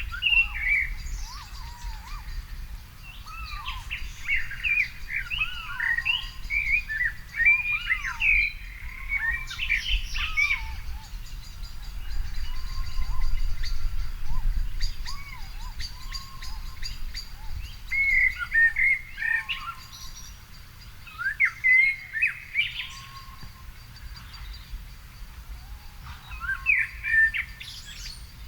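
Several songbirds singing and calling, with overlapping warbled and chirped phrases, busiest in a few bursts, over a steady low rumble.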